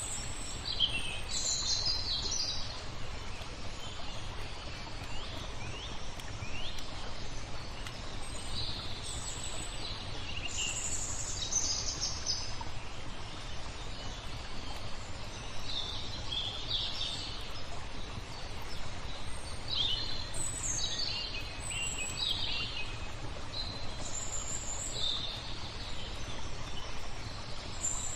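Small birds chirping and calling in short phrases, again and again, over a steady low background noise.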